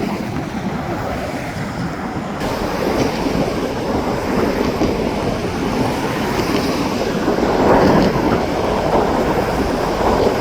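Railway cars rolling along the track: a steady rumble of wheels on rails that grows a little louder about halfway through.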